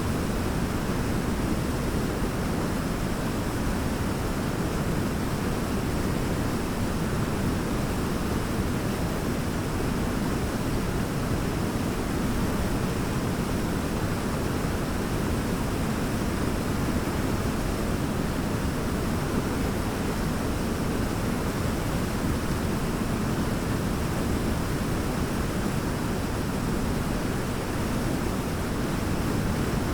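Large waterfall: a steady, dense rush of falling water, deepest and strongest in its low rumble, with no change or break.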